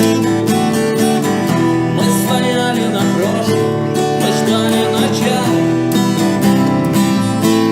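Acoustic guitar strumming chords in a steady rhythm, an instrumental passage of a live song.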